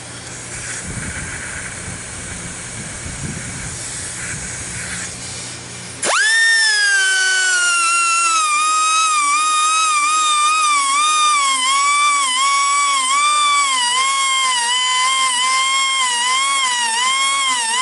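Hissing for about six seconds, then a pneumatic grinder whines into action sharpening the teeth of a steel sawmill band blade. Its pitch drops just after it starts and then dips and recovers about once a second as it is worked against the teeth.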